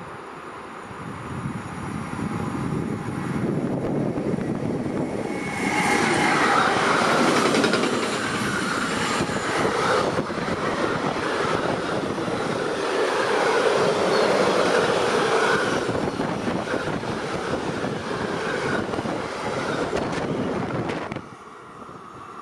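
DB class 152 electric locomotive hauling a freight train of double-deck car-transporter wagons through the station. The noise builds as it approaches and gets loud about six seconds in as the train comes past. Wavering high tones run over the wheel noise while the wagons roll by, and the sound drops suddenly near the end.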